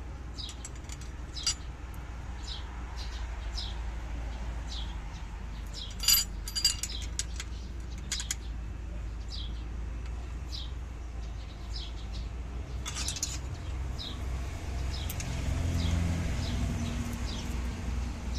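A small bird chirping over and over, short falling chirps a couple of times a second, with sharp metallic clinks of hand tools on the engine about a third of the way in and again past the middle, over a low steady hum.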